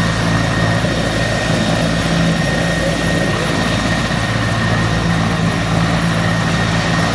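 Helicopter running loud and steady, a continuous rotor and engine noise with a steady high tone above it.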